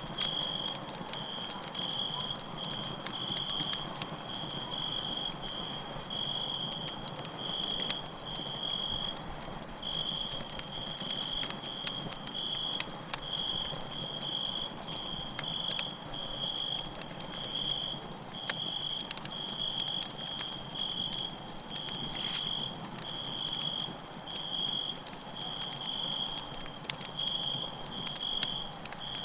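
Campfire crackling and popping over a soft hiss of burning wood, with crickets chirping steadily at a high pitch, about two chirps a second.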